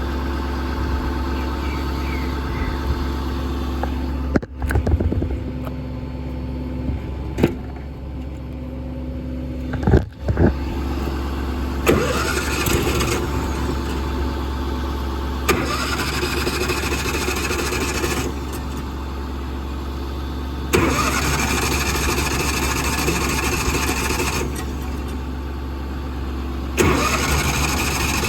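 Miller Trailblazer 302 Air Pack's engine cranked over again and again in stretches of a few seconds, with a few sharp knocks before the first, over a steady diesel idle. The unit is hard to start: the seller reports it as not working.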